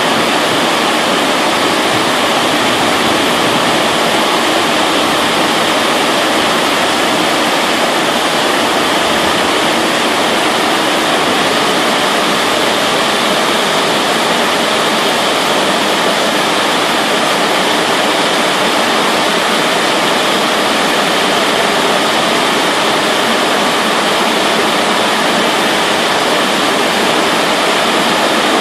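Heavy rain pouring down steadily as a dense, even hiss, with no thunderclap.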